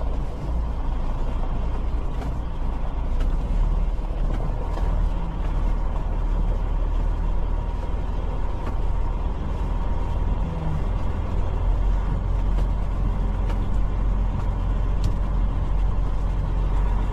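Semi truck's diesel engine running steadily, a continuous low rumble.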